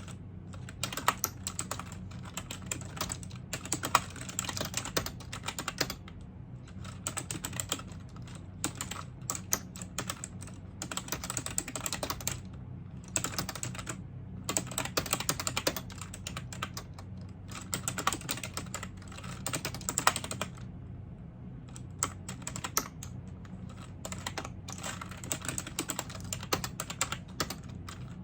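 Typing on a computer keyboard: quick runs of keystrokes broken by short pauses every few seconds, over a steady low hum.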